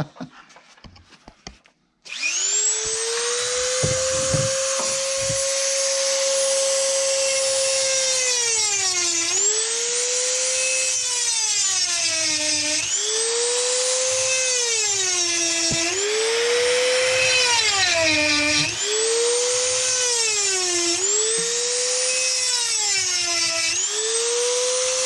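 High-speed electric chain-sharpening grinder spinning up about two seconds in, then whining steadily. Its pitch sags and recovers again and again, every two seconds or so, as the stone bogs under load on each cutter of the chain being sharpened.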